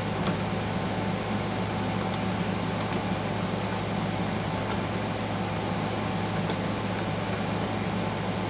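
Steady low hum and hiss of a fan or air-conditioning unit, with a few faint light clicks scattered through.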